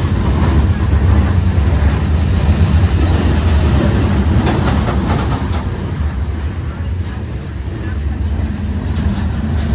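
A train rolling past: a steady low rumble of railroad cars on the track, with a few sharp wheel clacks about halfway through. It eases off slightly in the second half.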